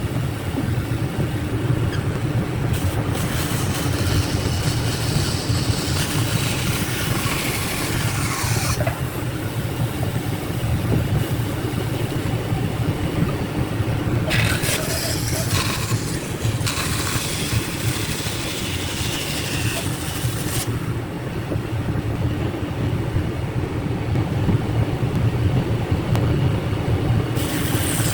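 A motor-driven machine running steadily, with stretches of hissing noise that start and stop every few seconds.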